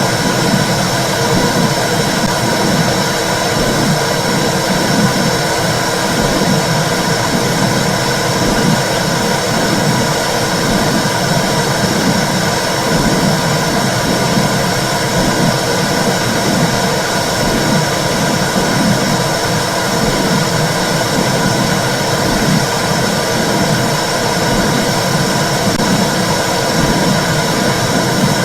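Womb sound for soothing babies: a loud, steady whooshing noise with a regular low pulse beating through it, like blood flow and a heartbeat heard from inside the uterus.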